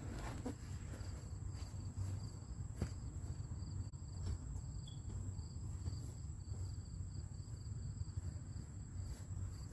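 Insects chirping steadily outdoors, a constant high buzz with a pulsing high trill beneath it, over low background rumble and a few faint knocks.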